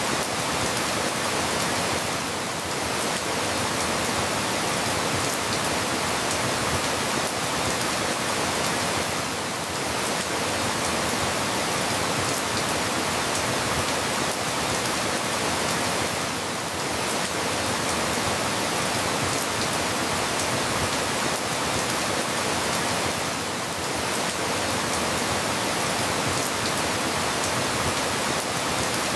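Steady rain, a dense even hiss with no separate drops standing out, dipping slightly in level about every seven seconds.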